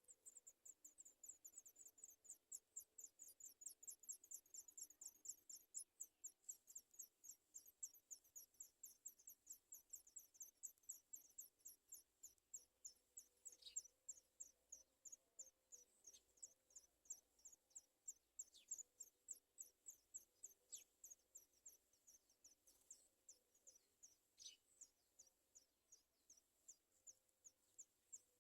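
Sooty chat nestlings begging for food: a faint, continuous run of short, high, downward-sliding peeps, about four a second, with an occasional longer downward-sweeping call.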